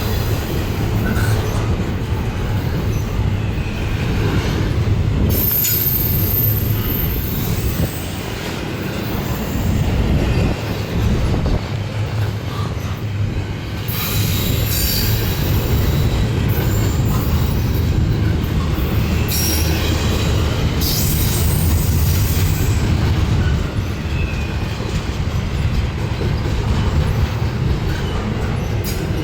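Intermodal freight cars rolling past with a steady rumble of steel wheels on rail. High-pitched wheel squeal comes and goes, loudest from about five to eight seconds in and again from about fourteen to twenty-one seconds.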